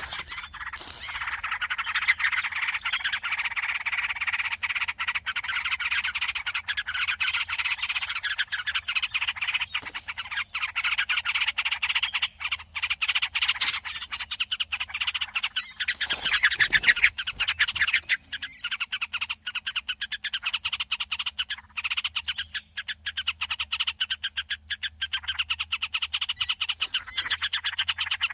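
A dense, continuous chorus of rapid rasping, croak-like animal calls, with many fast pulses and no pause, loudest about 16 to 17 seconds in.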